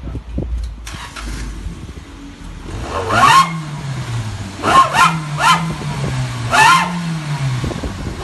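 Vehicle engine idling, then revved in four quick blips. Each blip brings a howling whistle from the exhaust that rises and falls in pitch: an aftermarket 'wolf/dog sound' howling exhaust.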